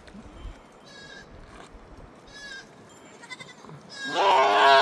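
Flock livestock bleating: a few faint, short bleats, then one loud, wavering bleat near the end.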